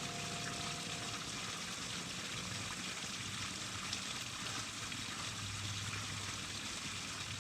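Water running steadily in a small man-made garden water feature, an even flowing sound with no breaks.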